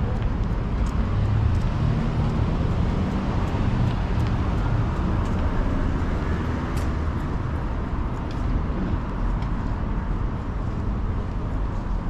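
Steady downtown street traffic noise: a continuous low hum of passing cars, with a few faint clicks scattered through it.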